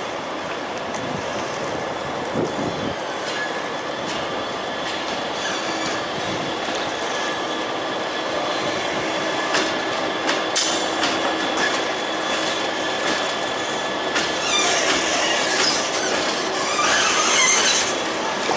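Train running along the track: a steady rail rumble with a few clicks around the middle and a wavering high wheel squeal near the end.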